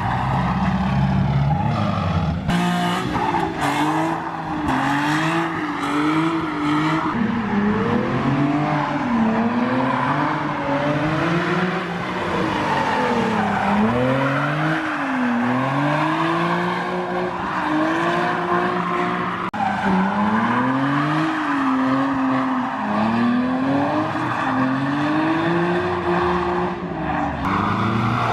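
A drift car's engine revving hard, its pitch swinging up and down in repeated waves as the throttle is worked through a slide, over a steady hiss of tyre noise.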